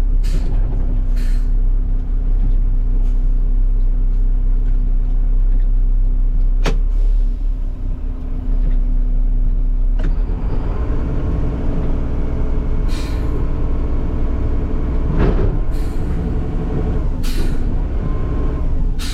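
Garbage truck's diesel engine running with a steady hum, a sharp click about a third of the way in, and a fuller, stronger engine sound from about halfway. Short air hisses come three times near the end.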